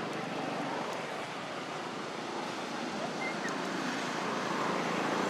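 Steady rushing outdoor background noise, like wind on the microphone, with a couple of faint short high chirps about three seconds in.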